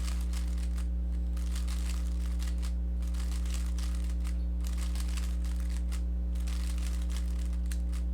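Rubik's cube being turned by hand: quick, irregular clicking and rattling of the plastic layers as algorithms are executed, over a steady low electrical hum.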